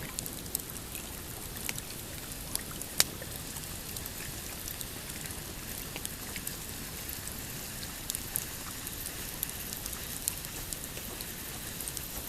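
Pine campfire crackling, with scattered sharp pops over a steady hiss, the loudest pop about three seconds in, and small waves lapping on a rocky shore beneath it.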